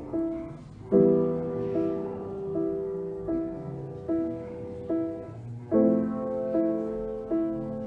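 Gentle solo piano music: a repeating figure of single notes about every three quarters of a second, with fuller chords struck about a second in and again near six seconds.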